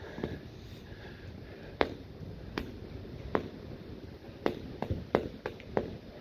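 Footsteps on a hard floor: six sharp steps spaced a little under a second apart, over a low background hum.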